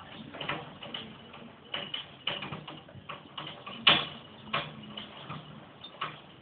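Irregular sharp clicks and taps, a dozen or so, with one louder knock about four seconds in, over a faint low hum.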